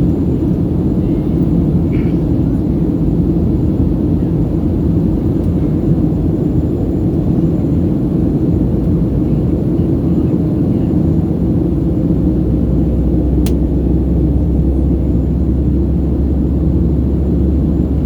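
Steady, loud cabin rumble of a Boeing 737-700 in flight: its CFM56-7B engines and airflow heard from inside the cabin. About two-thirds of the way through, a steadier low hum sets in beneath the rumble, and there is a single sharp click shortly after.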